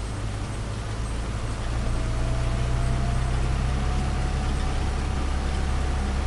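Turbocharged Nissan Micra engine running steadily with a low drone. About two seconds in, a thin whine comes in and rises slightly in pitch.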